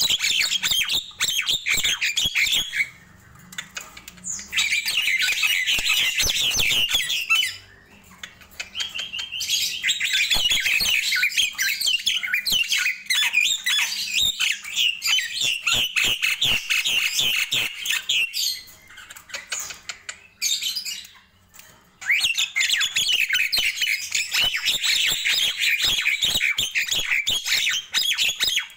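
Nias hill myna singing in long bouts of rapid, dense chattering calls, broken by a few short pauses.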